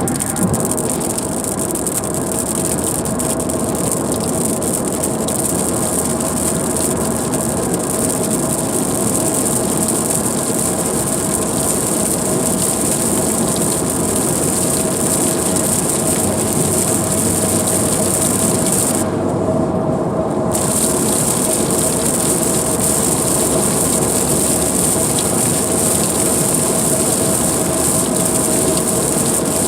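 Car driving through heavy rain: a steady loud wash of rain and spray on the car and tyres hissing on the wet road. About two-thirds of the way through, the high hiss cuts out for a second or so and then returns.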